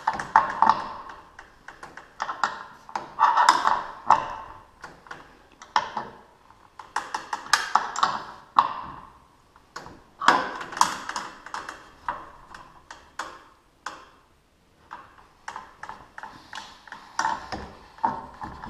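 Irregular metallic clicks, taps and pings from tools working on a garage door opener's drive chain adjustment, some knocks leaving a brief ringing. The chain is loose and, in the worker's words, might be stretched.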